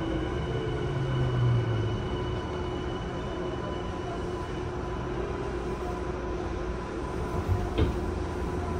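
Tokyu 5050 series commuter train running, heard inside the car: a steady rumble of wheels on rail with the steady whine of its Hitachi IGBT VVVF inverter drive. A sharp click near the end.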